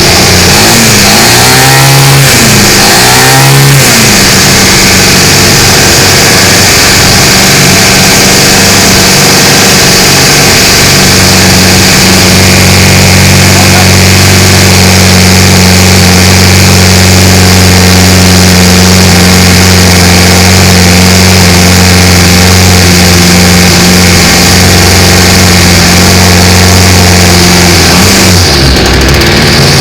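Stihl FS40E string trimmer's small two-stroke engine running loud. In the first few seconds it revs up and down several times, then it holds a steady speed until its pitch falls near the end.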